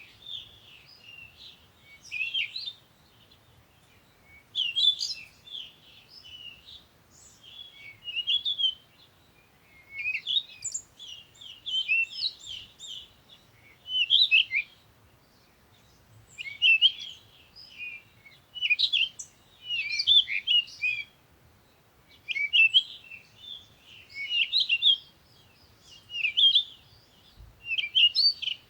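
Songbird song: rapid, high-pitched chirping phrases of one to two seconds, repeated every two to three seconds with short pauses between.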